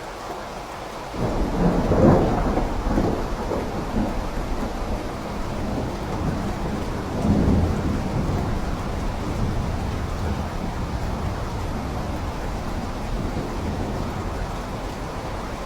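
Steady rain, with thunder breaking in suddenly about a second in and rumbling on. The thunder swells again about seven seconds in, then slowly dies away under the rain.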